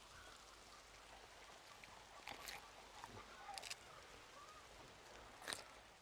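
Near silence, broken by three short, sharp taps a second or two apart; the last, near the end, is the loudest.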